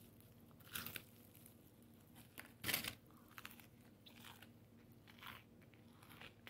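Close-up eating of crispy breaded fried chicken: a handful of separate crunches as the crust is bitten and chewed, the loudest about three seconds in, the rest softer.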